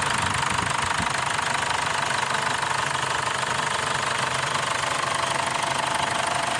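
Mazda BT-50 pickup's engine running steadily.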